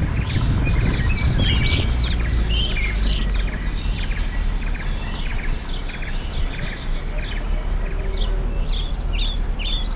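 Many birds chirping: a busy run of short, high calls overlapping throughout, over a steady low rumble.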